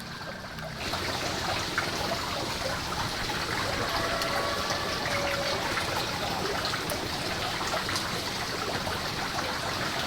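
Water running or pouring steadily, starting abruptly about a second in.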